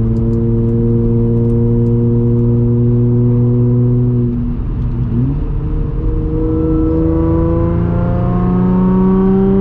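Audi S4 B8.5's supercharged 3.0 V6 running through an AWE exhaust on test pipes, heard inside the closed cabin while accelerating. The engine note rises gently, drops about halfway through as at a gear change, then climbs steadily again.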